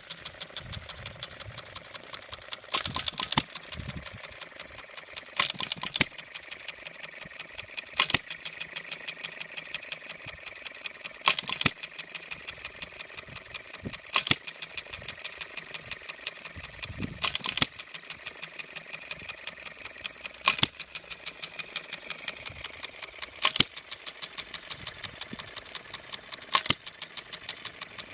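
Scale New Holland hit-and-miss engine running on its make-break ignition. It fires with a sharp bang, often two close together, about every three seconds, and coasts between firings with a fast light clicking of its valve gear and ignition.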